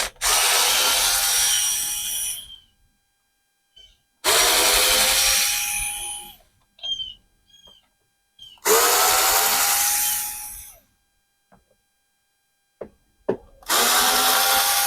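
Power drill loosening screws from a scooter's body panels, in four runs of about two seconds each. Its pitch drops slightly during each run.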